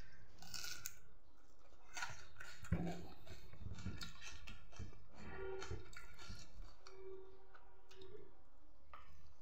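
Close-up eating sounds: chewing and lip smacks with small clicks as rice is eaten by hand, with one dull knock about three seconds in.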